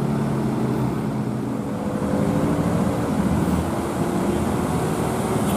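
Heavy truck engines running in a traffic jam: a steady hum with several engine tones that drift slightly in pitch.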